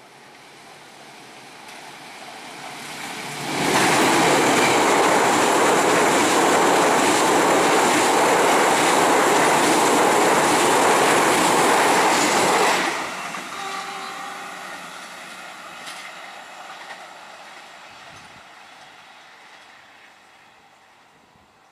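Passenger train coaches passing close over a steel bridge. The noise of the wheels and rails builds, starts loud suddenly about three and a half seconds in and stays loud for about nine seconds, then cuts off and fades away as the train recedes, with a few faint squeals.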